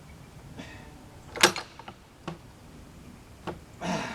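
A few scattered clicks and knocks, with one sharp loud knock about a second and a half in and a short pitched sound near the end.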